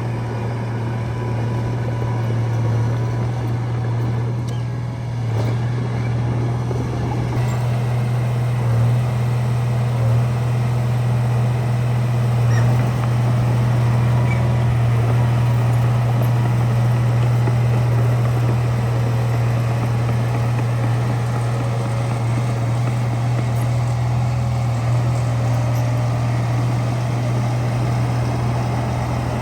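Diesel engine of heavy earthmoving machinery running steadily, a constant low drone that grows a little louder about seven seconds in.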